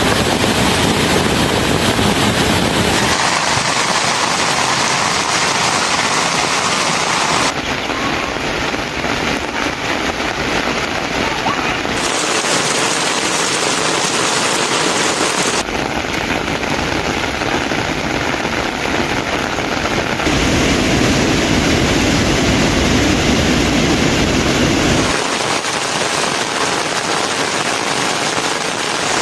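Heavy rain falling steadily, its sound changing abruptly every four to five seconds from one spliced recording to the next.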